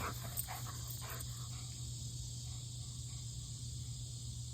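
Steady high-pitched insect chirring, with a low steady hum beneath and a few faint scuffs in the first second and a half.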